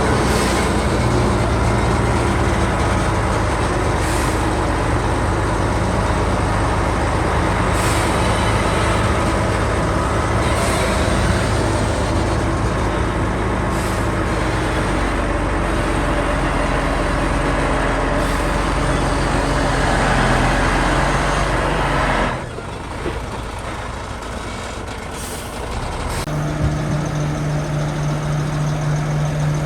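Heavy diesel earthmoving machinery running hard, a loud steady engine drone with faint hisses every few seconds. About 22 seconds in the sound drops off suddenly, and near the end a steady low hum starts.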